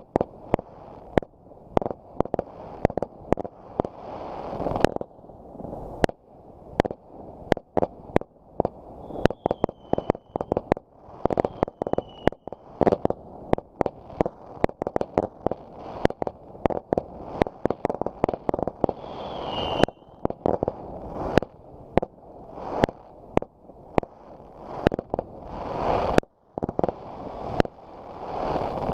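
Fireworks going off: a rapid run of sharp bangs, often about one a second, with a hiss that swells before many of them and a few brief high whistles.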